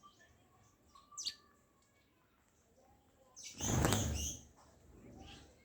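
A small bird gives a short, high chirp about a second in. Midway comes a louder burst of rustling noise, about a second long.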